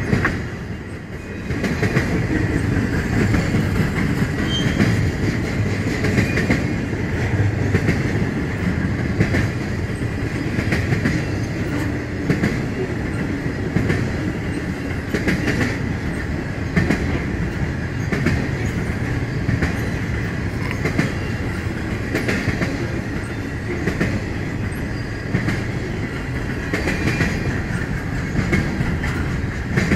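Norfolk Southern intermodal freight cars rolling past, wheels clicking over the rail joints in an uneven stream over a steady rumble. Loudness dips briefly about a second in, then holds steady.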